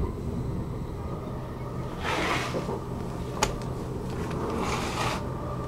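Inside a Stockholm commuter train: the carriage's steady low rumble and hum, with two short hissing rushes, about two seconds and four and a half seconds in, and a sharp click a little past halfway.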